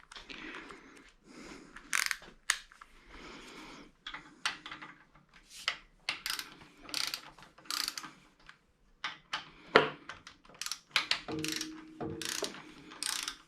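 Hand ratchet wrench with a 10 mm socket clicking in irregular short bursts as bolts on the engine's ignition coil are turned, with some clatter of metal parts and tools.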